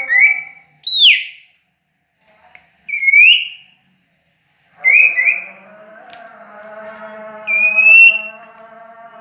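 Songbird giving loud, clear whistled notes that mostly rise in pitch: a few short notes, then single notes about a second apart, two quick notes near five seconds, and one longer rising whistle near the end.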